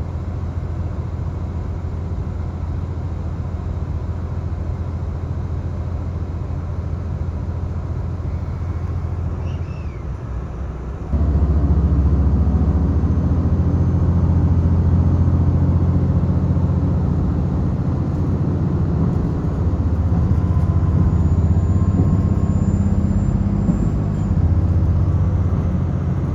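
Inside the cabin of a KiHa 261 series diesel express train, a steady low engine rumble. About eleven seconds in, the rumble jumps suddenly louder and stays there, as the train pulls away from the station stop.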